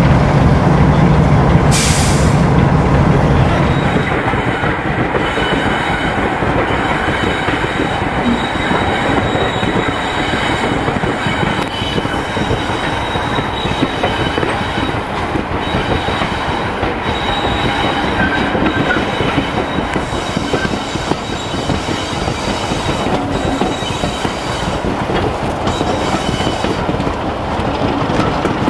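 Heritage diesel train running along, heard from a carriage window: a steady rumble of wheels on the rails with a thin, steady squeal of wheel flanges on the curve. In the first few seconds a deeper locomotive diesel engine note is heard, with a brief hiss about two seconds in.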